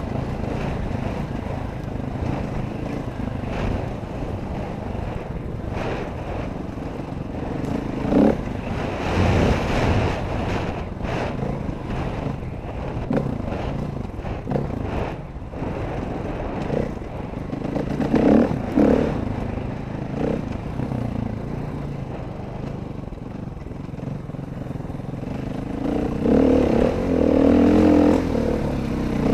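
Dirt bike engine running under changing throttle while riding, with revs surging several times, the last and longest near the end. Rattling and rough noise run under it.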